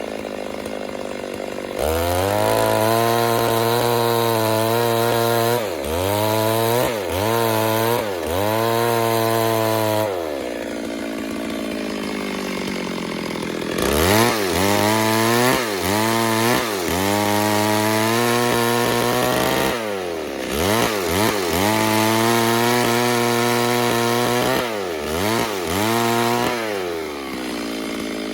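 Stihl MS 382 two-stroke chainsaw milling a log lengthwise at full throttle, its revs sagging and picking up again many times as the chain bites into the wood. Two quieter spells interrupt the cutting, one near the start and one about halfway through.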